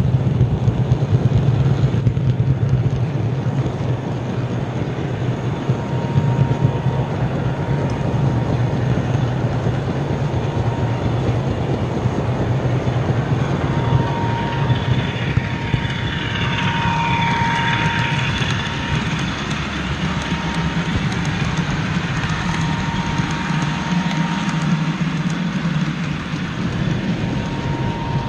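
OO gauge model train running on the track: a steady electric-motor hum and wheel rumble with a thin high whine. About halfway through, a higher wavering whine swells and fades over several seconds.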